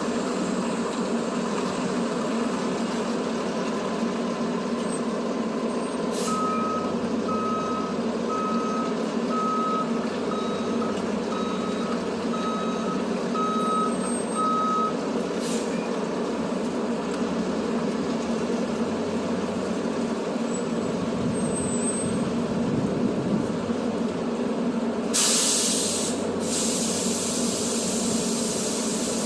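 Heavy truck engine running steadily, with a row of about nine evenly spaced reversing beeps at one pitch a fifth of the way in, and a short loud air-brake hiss near the end.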